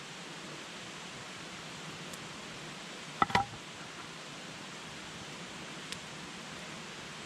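Campfire burning with a faint steady hiss, broken about three seconds in by a sharp cluster of crackles and pops from the burning wood, and a single small pop near six seconds.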